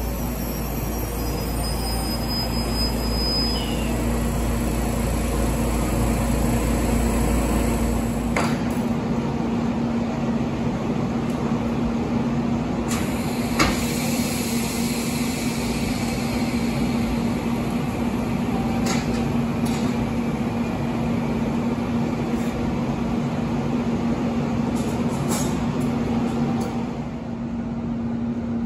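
Standing JR Shikoku 8000 series electric trains giving a steady hum from their on-board equipment, with a low rumble that stops about eight seconds in. Scattered sharp metallic knocks come from the joint between the two coupled sets, where a worker is at work, the loudest about halfway through.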